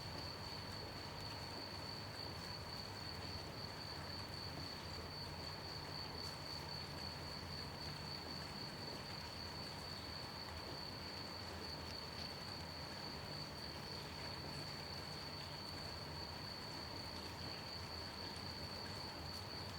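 Crickets chirping in one steady, high, unbroken trill over the soft, even hiss of gentle rain.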